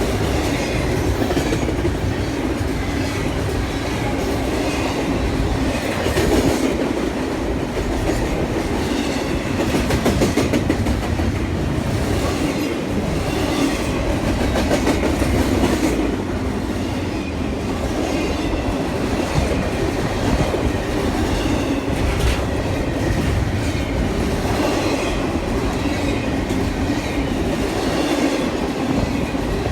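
A train rolling steadily past, its wheels clicking over the rail joints car after car.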